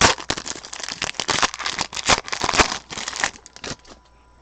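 A foil trading-card pack wrapper being torn open and crinkled in the hands, a dense crackling that dies down about three and a half seconds in, leaving a few light clicks.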